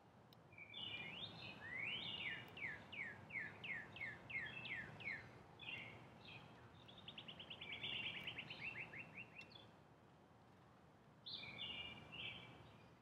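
Northern cardinal singing: a series of loud, clear down-slurred whistles, then a faster rapid trill of short notes, and after a pause a short phrase again near the end.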